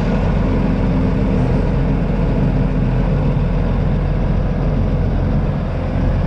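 New Holland TJ375 tractor's diesel engine running steadily.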